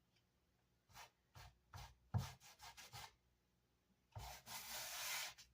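Hand sanding on the edges of a wooden Vox AC30 speaker baffle: a handful of short, faint scraping strokes, then one longer steady rub near the end.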